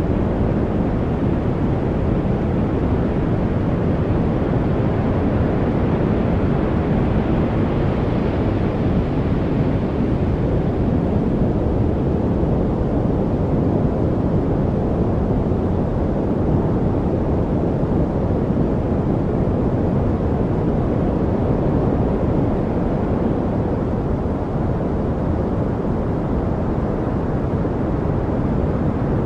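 Steady, deep, rumbling noise like a study noise track, heavy in the bass and dull in the treble, with no birds, drips or other distinct events in it. A slightly brighter hiss swells in briefly about eight seconds in.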